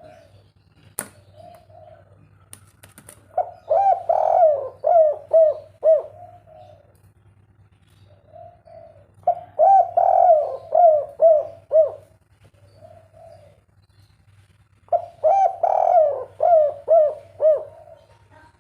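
Spotted dove singing its 'kuk 3' coo song: three phrases about six seconds apart, each a quick run of rising-and-falling coos. A few sharp clicks in the first three seconds, over a steady low hum.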